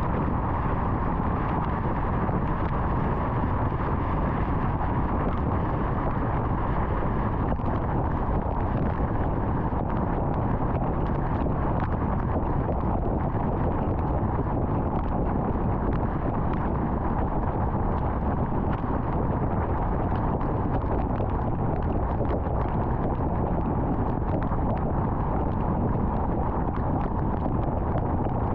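Steady road noise of a car driving at highway speed: tyre and wind noise that holds level throughout, with faint scattered ticks.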